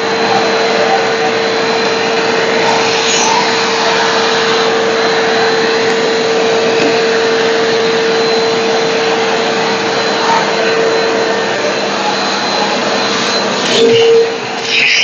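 Black & Decker VM1680 1600 W bagless cyclonic canister vacuum cleaner running steadily, a loud rushing roar with a steady hum. Near the end it briefly surges louder.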